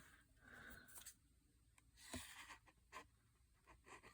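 Faint rustling of book-page paper being handled, with a few soft clicks about two and three seconds in.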